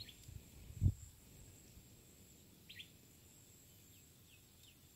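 A few faint, short chirps from small birds, with a soft low thump about a second in.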